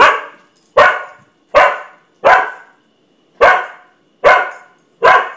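Mixed-breed dog barking: seven loud barks in a row, about one every 0.8 seconds, with a slightly longer gap after the fourth. Alarm barking, warning at a broken window blind.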